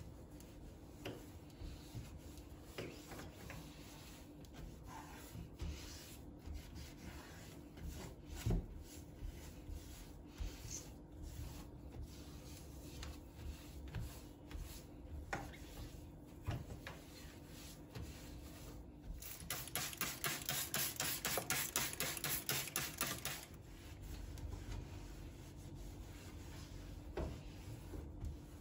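Household cleaning by hand: rubbing and wiping with scattered light taps and knocks. About two-thirds of the way in comes a four-second stretch of fast, rhythmic back-and-forth scrubbing, the loudest part.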